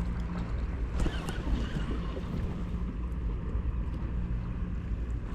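Wind buffeting the microphone over open water: a steady low rumble, with a faint steady hum underneath and a few light ticks.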